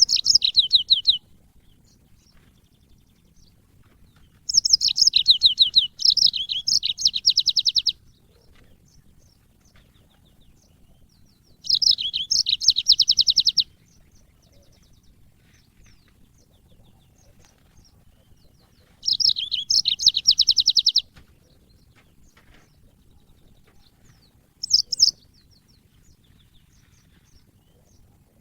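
Yellow-fronted canary singing in short bursts of fast, high trills, about six phrases with pauses of several seconds between them.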